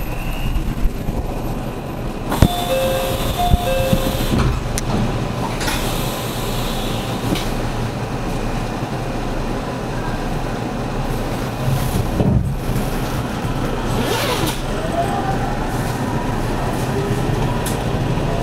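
Running noise inside the motor car of a JR Central 313 series 8000-subseries electric train (KuMoHa 313-8502): a steady rumble of wheels on rail with a few sharp clicks. Short paired beeping tones come in about two to four seconds in, and in the last few seconds a whine rises in pitch as the traction motors pick up speed.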